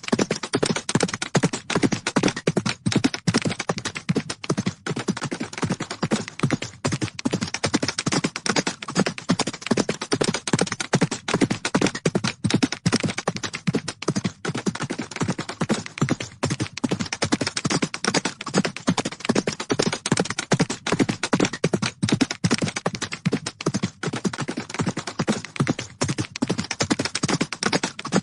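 Horses' hooves galloping: a rapid, unbroken run of hoofbeats at a steady level.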